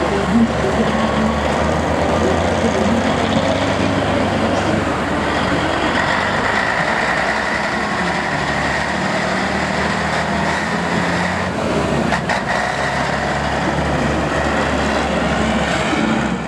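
Heavy truck engines running steadily, a deep mechanical hum with a haze of noise over it; the sound cuts off abruptly at the end.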